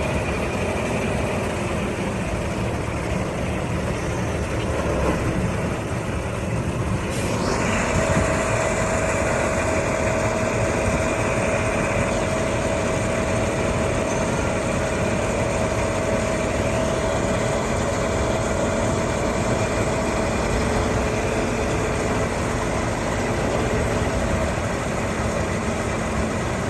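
Heavy diesel truck engine idling steadily. About seven seconds in the sound grows fuller and a steady whine runs over the engine for a while.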